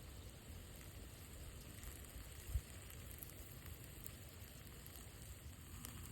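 Faint steady outdoor noise, a low rumble with a fine hiss over it, and one soft thump about two and a half seconds in.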